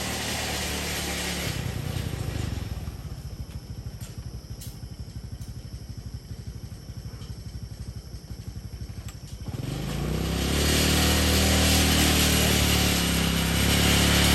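A small engine running: it ticks over with a fast, even putter, then speeds up and gets louder about ten seconds in.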